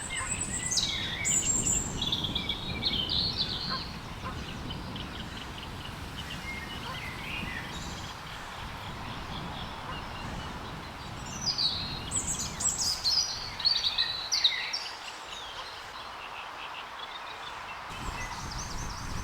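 Small songbird singing two short, quick, high-pitched song phrases that step down in pitch, about ten seconds apart. Steady outdoor background noise runs underneath.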